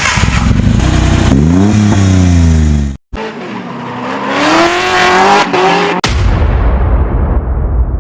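Kei truck's exhaust as the engine is revved, its note climbing in pitch. The sound breaks off briefly about three seconds in and then climbs again in a second rev. From about six seconds in there is a steady low rumble.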